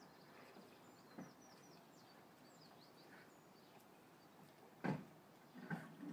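Faint birdsong, a scatter of short high chirps over quiet outdoor background. A single thump about five seconds in, and a low hum starting near the end.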